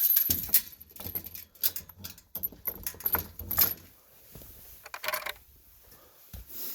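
Metal chain rattling and clinking against a gate as it is closed and chained shut, with several knocks, busiest for the first few seconds.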